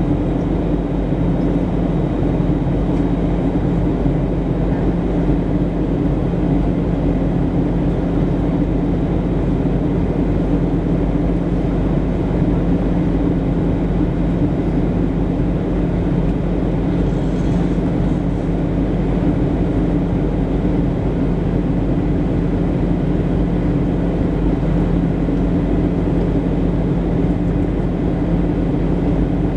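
Steady in-flight cabin noise of a Boeing 737-700: a constant airflow rush with a steady low hum from its CFM56-7B engines.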